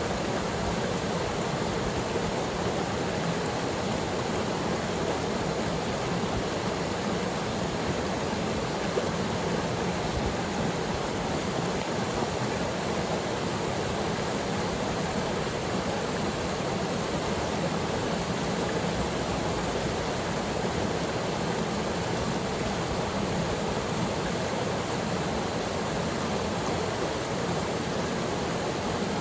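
Small waterfall pouring steadily into its pool: an even, unbroken rush of falling water.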